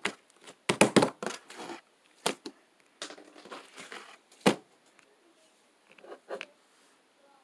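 Fluffy slime squished and pressed by hand, giving irregular bursts of crackling and popping. The loudest run comes about a second in, with a sharp pop near the middle and softer squishes near the end.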